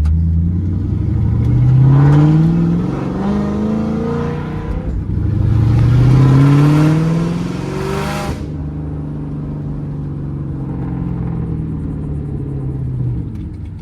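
Straight-piped 4.6-litre two-valve V8 of a New Edge Ford Mustang GT accelerating hard through two gears: the exhaust note climbs, drops at a shift about five seconds in, and climbs again. After that it settles into a steady cruise, its pitch slowly falling.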